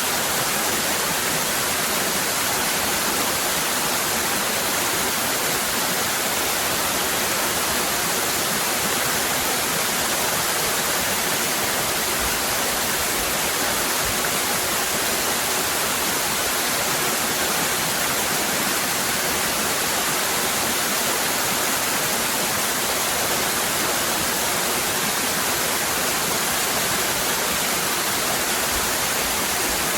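Waterfall cascading: a steady, even rush of falling water with no breaks or changes.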